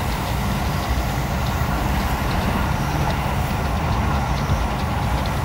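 Steady running noise of a train heard from inside the carriage: a deep rumble of wheels on rail under a band of hiss, with faint irregular ticks.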